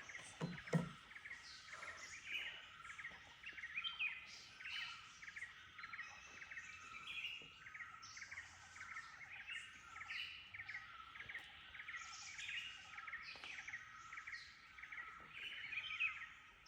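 Wild birds calling in the forest: many short chirping notes repeating and overlapping, fairly faint, over a steady faint background. A couple of soft knocks near the start.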